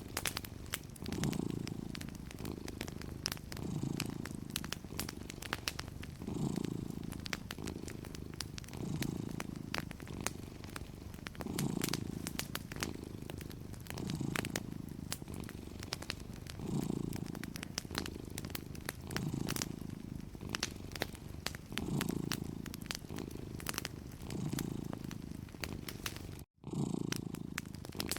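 Domestic cat purring steadily, each breath swelling and fading about every two and a half seconds, over the light, irregular crackle and pops of a wood fire. Near the end the sound cuts out for a moment.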